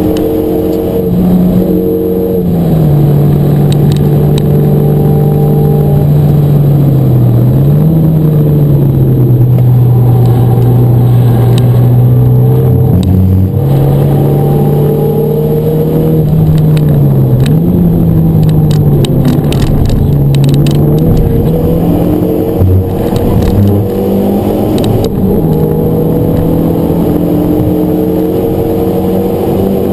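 Renault Megane RS250's turbocharged four-cylinder engine heard from inside the cabin at speed on track, its note holding mostly steady and dipping and climbing back a few times as the car lifts, brakes and accelerates through the corners.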